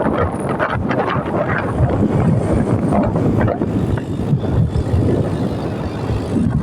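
Wind buffeting the microphone over the running of a moving motorcycle, a steady, loud, fluttering rush.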